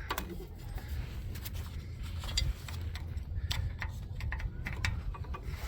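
Hand wrench working on a nut on the starter's wiring studs, giving scattered light metallic clicks and ticks, over a low steady rumble.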